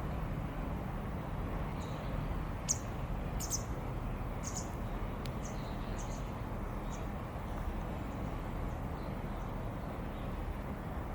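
A series of short, high bird chirps, about a dozen between two and seven seconds in, over a steady low outdoor rumble.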